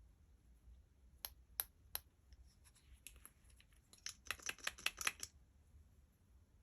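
Sharp clicks and taps of small hard objects being handled: three distinct clicks about a second in, a few lighter ones after, then a quick cluster of clicks near the end.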